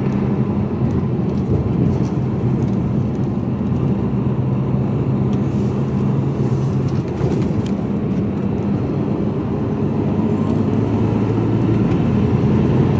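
Mercedes-Benz Actros lorry's diesel engine running steadily at cruising speed with road noise, heard from inside the cab.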